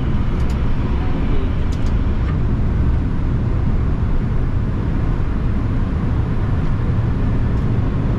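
Steady low rumble of a Boeing 787-9's engines and airflow as heard on the flight deck, with a couple of faint clicks in the first two seconds.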